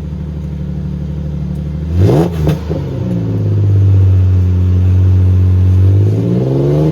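Ford Ranger engine, cold-started, breathing through a newly fitted Magnaflow muffler that replaces the stock resonator: idling, then revved up about two seconds in, held at higher revs for several seconds, and dropping back near the end.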